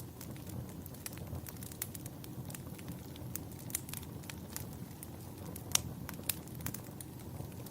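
Campfire burning: a steady low rumble of the flames under scattered sharp crackles and pops, with one louder pop near the end.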